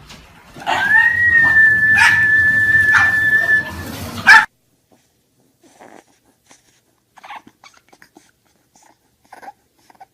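A dog whining: one long, high-pitched whine, rising slightly at its start and then held steady for about three seconds. It ends with a loud click, then only faint ticks.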